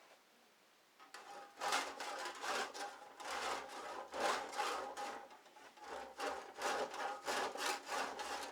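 Hand saw cutting through a garage door panel in quick back-and-forth strokes, about two a second, starting about a second in.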